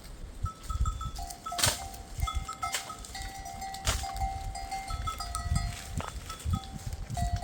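Bells on a grazing flock of sheep and goats clinking as the animals move, several bell pitches ringing on and off, over a low rumble, with a couple of sharp clicks.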